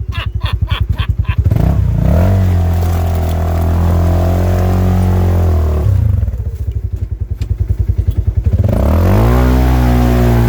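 Polaris RZR side-by-side engine idling with slow, distinct firing pulses, then rising to a steady higher speed and holding it for several seconds. It drops back to idle about six seconds in and rises again near the end.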